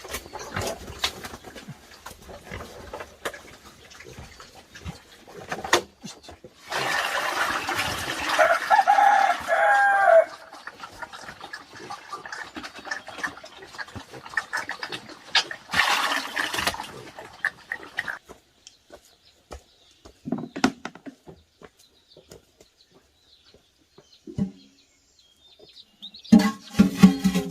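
A rooster crowing once, a long call about seven seconds in, amid scattered knocks and clicks; music comes in near the end.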